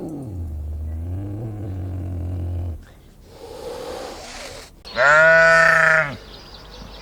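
Animal calls: a low, drawn-out groan for the first few seconds, then about five seconds in a loud, bleat-like call held on one pitch for about a second.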